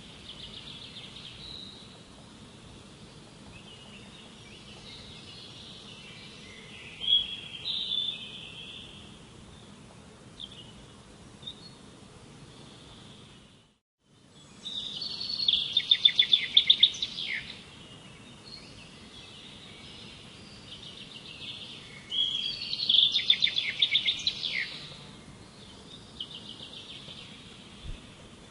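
Songbirds singing in repeated phrases of rapid, high chirping notes over faint outdoor background noise. The sound cuts out completely for a moment about halfway through, then the singing resumes louder.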